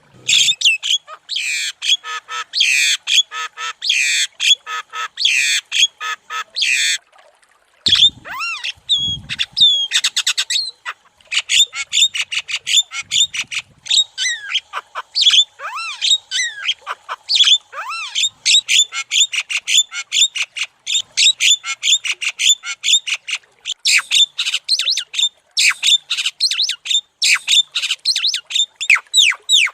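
Javan myna (jalak kebo) singing steadily: long, fast runs of short repeated high notes, with a short break about seven seconds in.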